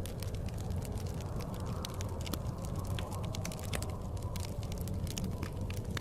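Wood fire crackling in a fireplace, with frequent small sharp pops at irregular intervals. Underneath runs a steady low rumble of blizzard wind.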